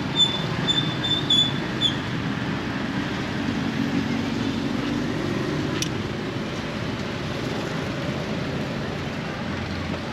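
Steady background noise of a busy street with traffic. A quick run of about six short, high beeps sounds in the first two seconds, and a single click comes near the six-second mark.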